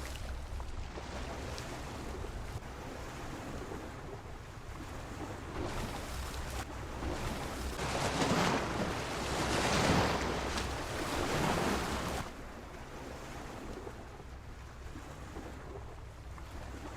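Sea waves washing against a pier: a steady surf noise that swells louder from about eight to twelve seconds in, then falls back, over a low steady rumble.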